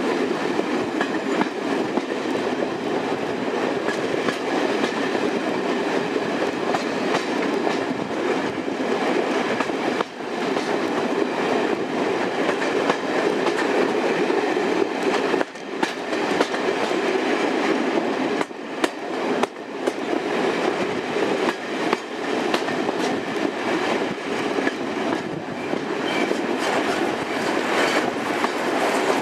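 Passenger train running, heard from an open carriage window: a steady rush of wheel, rail and wind noise with the diesel engine of Class 73 electro-diesel locomotive 73118 working ahead, dipping briefly a few times.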